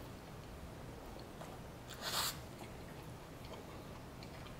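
A person chewing a soft meat sandwich with faint wet mouth clicks, and one short, louder noisy sound about two seconds in.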